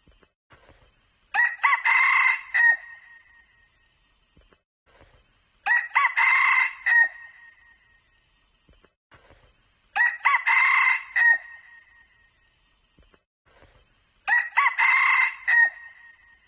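Junglefowl cock crowing four times at even intervals of about four seconds, each a short, ringing crow of about a second and a half.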